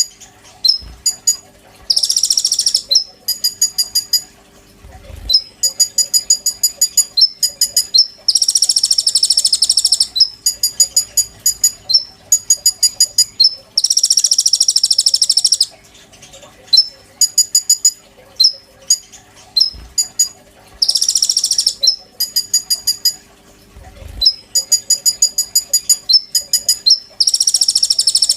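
Konin songbird singing: quick runs of sharp, high chirps broken five times by a dense, buzzing trill lasting one to two seconds. A faint steady hum sits beneath.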